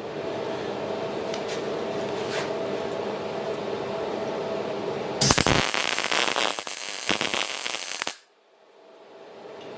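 Angle grinder running up to speed with a steady whine, then cutting or grinding steel with a loud crackling rasp for about three seconds that stops abruptly.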